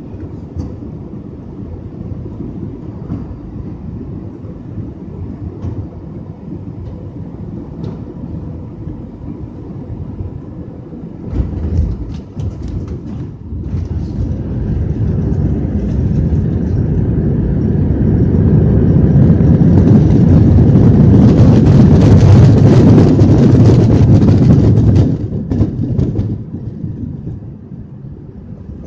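Airbus A320 landing, heard from inside the cabin: steady cabin rumble, then a jolt and rattling as the wheels touch down about eleven seconds in. The engines then build to a loud roar of reverse thrust for several seconds, and it drops away suddenly as the jet slows on the runway.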